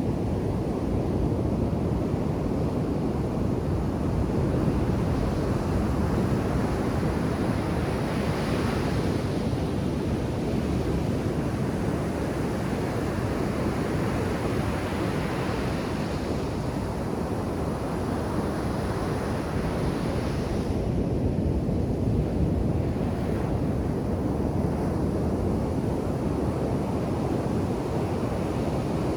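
Ocean surf breaking on a beach: a steady low rumble with the hiss of a wave's wash rising and falling every several seconds.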